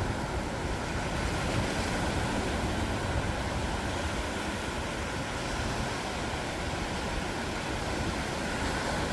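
Ocean surf washing on a beach: a steady rush of waves with no distinct single breaks, swelling slightly a couple of seconds in.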